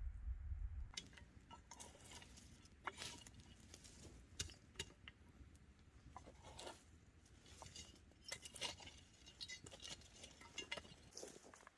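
Scattered light clicks, knocks and clinks of small objects being handled, at an irregular pace, a few with a brief ring.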